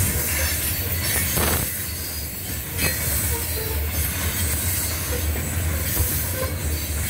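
Covered hopper cars of a CSX freight train rolling past close by: a steady low rumble of steel wheels on rail under a broad hiss, with a few brief, faint wheel squeals.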